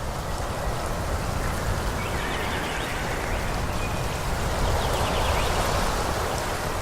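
Wind blowing through a forest: a steady rushing noise with a low rumble, swelling slightly about five seconds in.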